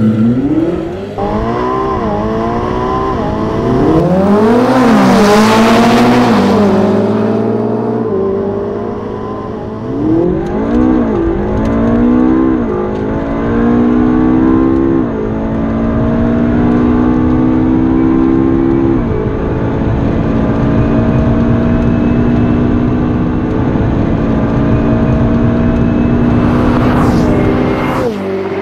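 Twin-turbo V8 supercar engines accelerating flat out from a standing start, the engine note climbing and dropping back at each of several upshifts, then holding a long steady high note at speed. Near the end comes a brief whoosh of a car rushing past.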